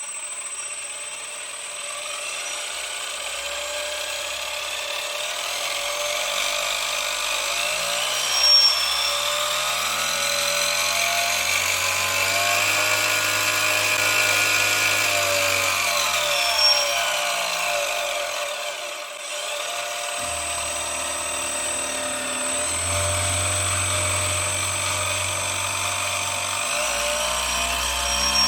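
A small high-revving motor or engine running on its first startup. Its speed climbs steadily to a peak about halfway through, sinks, dips sharply about two-thirds of the way in, then picks up again, over a constant high whine.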